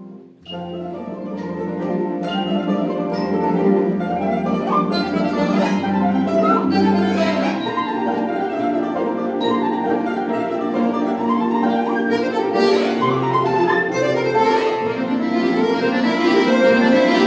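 Folk-instrument orchestra with button accordions playing. A held chord ends, there is a short break about half a second in, then a new passage starts over a pulsing bass with quick running notes and grows louder.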